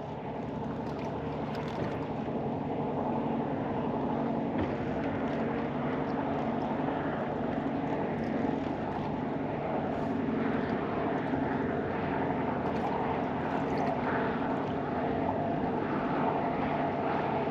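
An engine drones steadily, a low hum with several overtones, growing a little louder over the first few seconds and then holding. Wind and water noise run under it.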